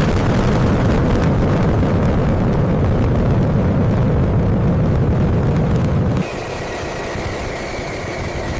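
A loud, steady, deep engine-like roar that drops about six seconds in to a quieter hiss with a steady high whine.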